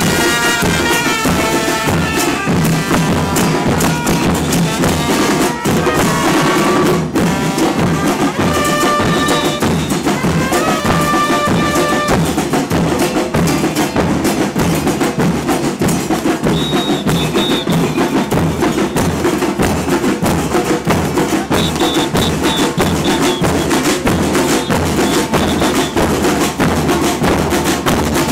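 Live carnival band music: a steady, loud drum rhythm throughout, with a horn melody over about the first half that then drops out, leaving the drums.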